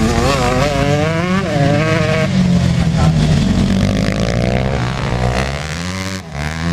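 Motocross dirt bike engines revving, pitch rising and falling quickly with the throttle, over the steady drone of another bike. The sound dips briefly about six seconds in, then picks up again.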